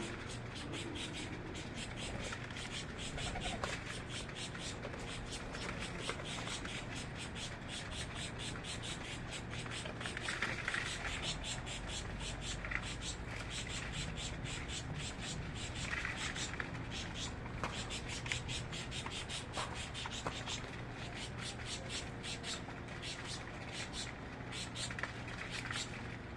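Many small birds chirping: a dense, continuous run of short, sharp high chirps, over a steady low hum.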